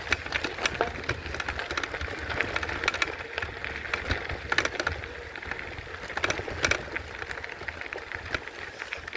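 Folding e-bike being ridden over a rough woodland path: tyre noise with a low rumble, broken by many irregular clicks and rattles from the bike.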